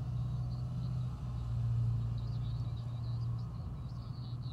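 Car engine idling, a steady low hum heard from inside the parked car, with faint high chirping in the background.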